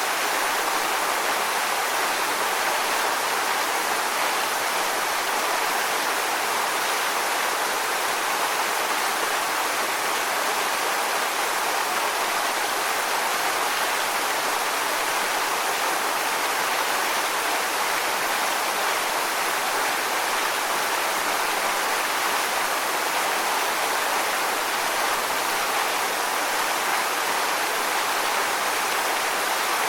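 Waterfall: water falling and splashing in a steady, even rush without change.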